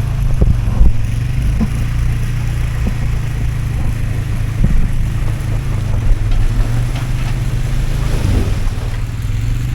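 Off-road vehicle engine running at low revs, a steady low rumble, with a few scattered knocks.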